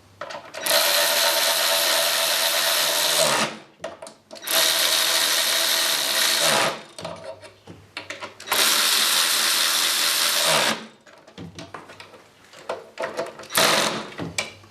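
A handheld power tool's motor running in three bursts of two to three seconds, dropping in pitch as it winds down after each. Short tool clicks and knocks come between the bursts.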